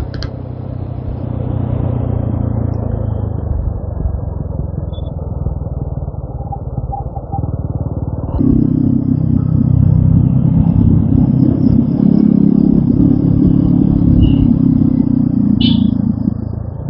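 TVS Apache RTR 200 4V's single-cylinder engine running on the move. It is quieter at first, gets clearly louder about eight seconds in, and eases briefly near the end.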